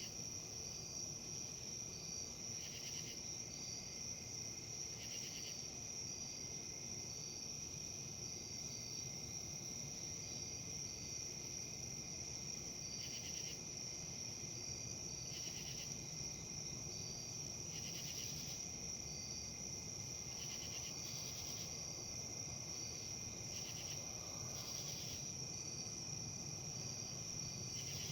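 Insect chorus: a steady high trill, a softer pulsing call about once a second, and short buzzy calls every two to three seconds, over a faint low rustle of wind in leaves.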